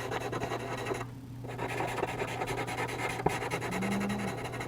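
Soft charcoal pencil shading on charcoal paper: quick, dense scratchy strokes, easing off briefly about a second in.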